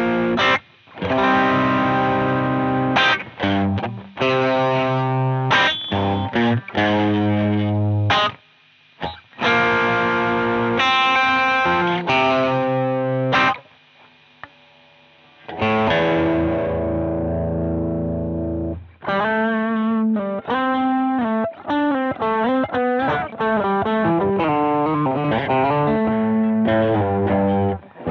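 Electric guitar played through a Jeds Peds Onosecond high-gain overdrive pedal, giving a heavily distorted tone. Riffs of chords are cut off by short stops. About halfway through there is a brief silence, then a chord is left to ring and fade. The last stretch is quicker single-note playing.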